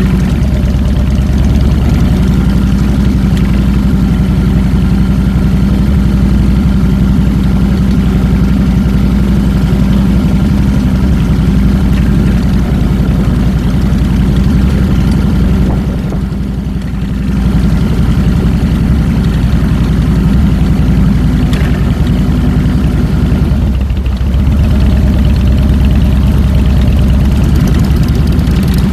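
2007 Harley-Davidson Fat Boy's Twin Cam 96 V-twin engine running, heard close up from the handlebars, loud and steady. The engine sound eases off briefly about halfway through and again a few seconds later.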